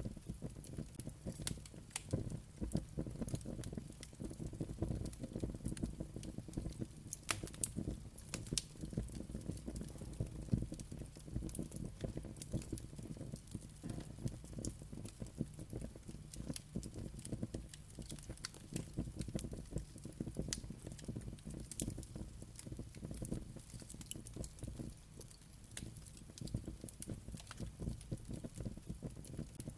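Fireplace fire crackling, with frequent irregular sharp pops and snaps over a low, steady rumble of flames.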